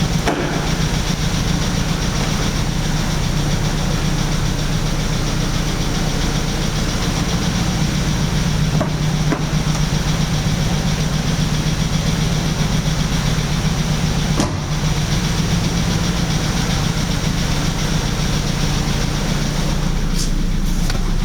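BMW 320Si's 2.0-litre four-cylinder engine running steadily at idle; the car has an engine fault that needs attention.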